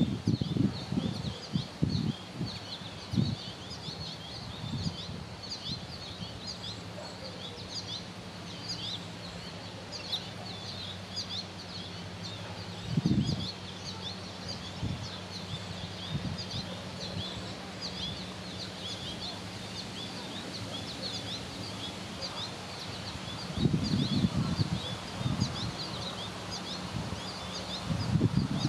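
Small birds chirping repeatedly in quick, short high notes, with low gusty rumbles now and then near the start, about halfway and toward the end.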